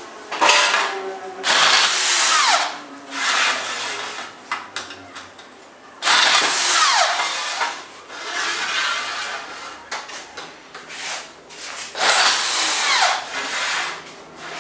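A power tool run three times in short bursts, each with a high whine that rises as it spins up and falls away as it winds down.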